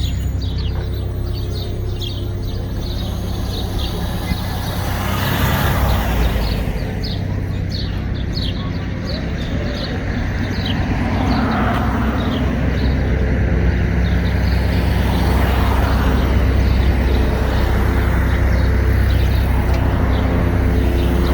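An engine running steadily with a low hum, with many short high chirps over roughly the first half.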